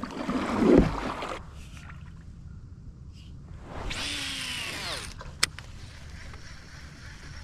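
A fishing reel's spool whirring through a cast, its pitch falling as it slows over about a second, then a single sharp click. Before that, water sloshes and splashes briefly against the kayak.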